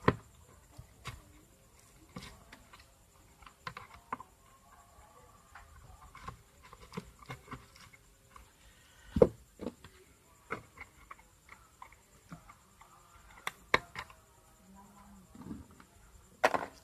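Scattered light clicks and taps of a hand tool and small metal parts while an electric clothes iron is being taken apart, with a sharper knock about nine seconds in and a couple more near the end.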